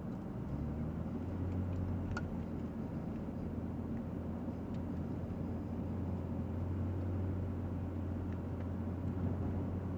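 Car driving at a steady speed, heard from inside the cabin: a steady low engine drone under tyre and road noise.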